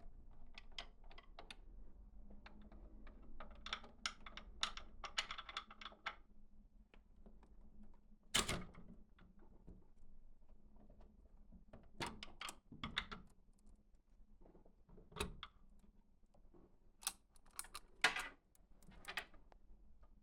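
Irregular clicking and tapping of small hard objects being handled, in quick clusters, with a few louder knocks about eight seconds in, around twelve and fifteen seconds in, and near the end.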